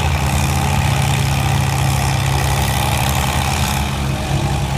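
Farm tractor engine running steadily, a low even drone with no revving.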